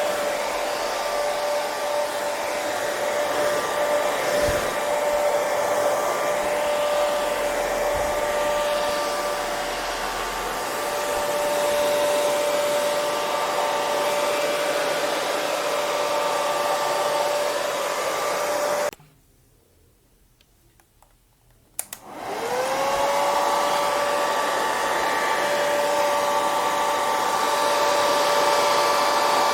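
Hair dryer running with a steady rush of air and a motor whine. About two-thirds of the way through it cuts off suddenly for a few seconds. A couple of clicks follow, then it starts again, its whine rising as the motor spins back up to speed.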